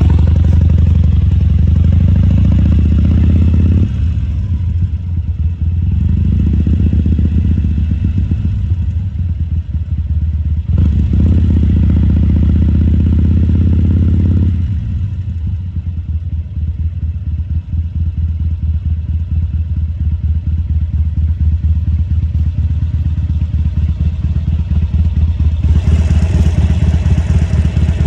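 2014 Harley-Davidson Sportster XL1200C's 1200 cc air-cooled V-twin engine running, louder in stretches near the start and in the middle, easing off for about ten seconds, then picking up again near the end.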